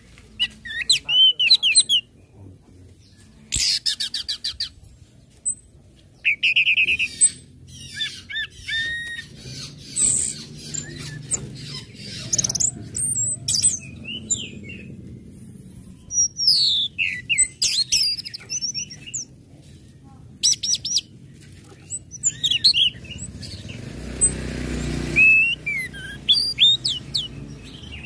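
Orange-headed thrush (anis merah) singing in separate short phrases of sharp, quickly gliding whistles and chirps, some of them rapid runs of repeated notes, with short pauses between phrases.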